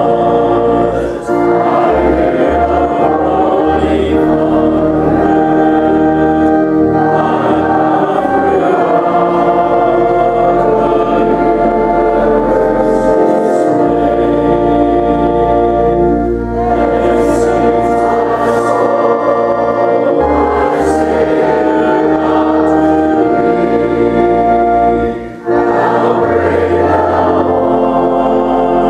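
Choir singing church music with sustained low accompaniment, in long held phrases with brief breaks about a second in, about sixteen seconds in and near twenty-five seconds in.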